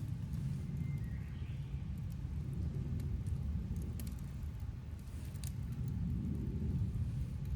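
Steady low rumble, with a few faint sharp crackles from a campfire scattered through it.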